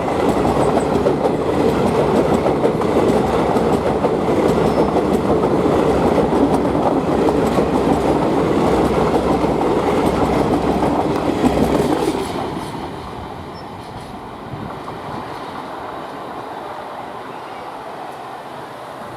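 Passenger train coaches rolling past at speed, wheels clattering over the rail joints. About twelve seconds in the noise drops away sharply as the end of the train goes by, leaving a fainter rumble as it recedes.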